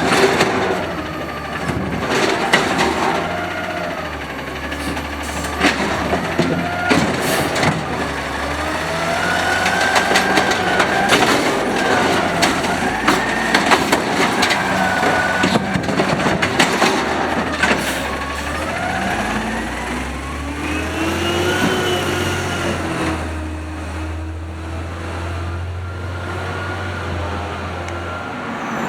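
Automated side-loader garbage truck working: its engine revs up and down repeatedly to drive the hydraulics, with sharp metallic bangs and clanks from the lifting arm and cart. The knocks are thickest in the first half and around the middle.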